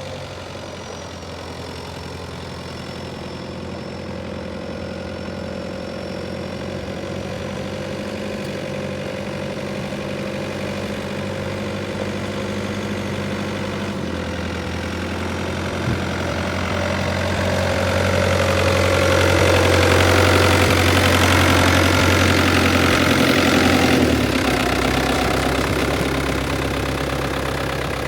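Farm tractor engine running steadily. Its note shifts about halfway through, then it grows louder before easing off again near the end.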